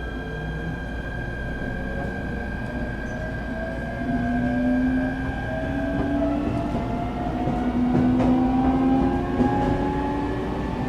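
Inside an electric train car: a steady low rumble under the whine of the traction motors, which climbs slowly in pitch and gets louder from about four seconds in as the train accelerates. A few light clicks from the wheels are mixed in.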